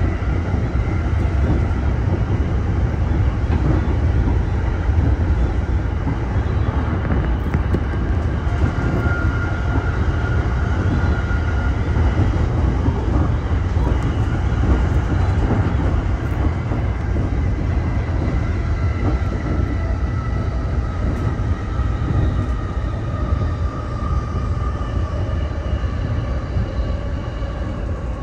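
E231-series electric train running, heard from inside the front car: a steady, loud rumble of wheels on rail with a faint electric-motor whine that slides down in pitch over the last several seconds.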